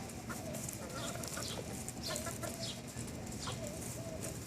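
A flock of chickens clucking, with many short overlapping calls and some higher chirps.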